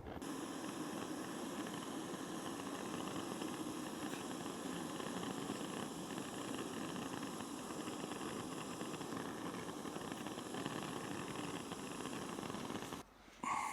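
Camping gas hissing steadily with a low rumble, cut off sharply near the end, followed by a few small clicks.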